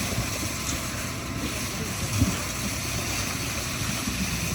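Heavy engine running steadily, with wind buffeting the microphone and a single dull thump about two seconds in.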